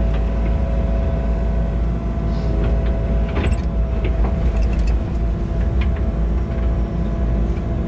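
Tractor engine running steadily under a heavy rumble, with a few short clanks from the machine as work begins.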